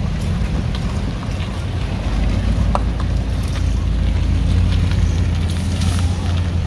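Toyota Vios sedan creeping by at low speed, its engine a steady low hum that grows louder as the car draws close, with scattered small clicks.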